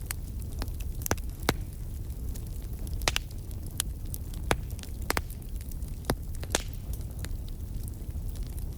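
Wood campfire crackling, with sharp irregular pops and snaps from the burning firewood over a low steady rumble.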